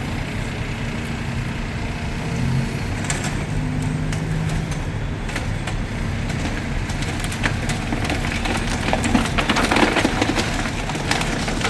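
Street traffic: a motor vehicle engine running steadily over a low rumble, with scattered sharp clicks and knocks in the second half.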